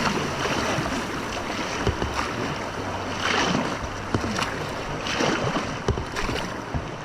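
Steady rush of river whitewater heard from a kayak, with a few short sharp sounds scattered through it.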